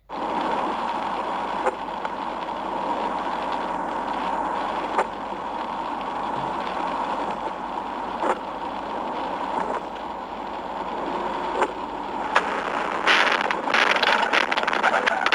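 Steady rushing noise of a moving car, with a few sharp clicks, and a rapid crackling clatter over the last two seconds.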